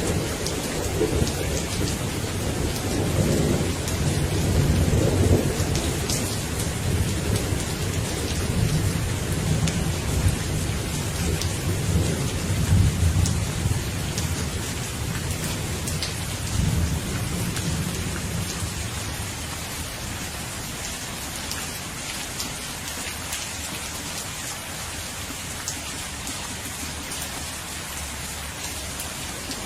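Steady rain falling with rolling thunder rumbling underneath; the thunder is strongest in the first half and dies away after about 18 seconds, leaving mostly the hiss of rain.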